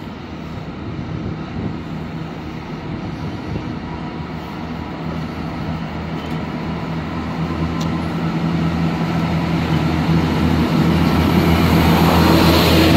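GWR diesel multiple unit running into the platform. Its engine hum and wheel noise grow steadily louder as it draws alongside.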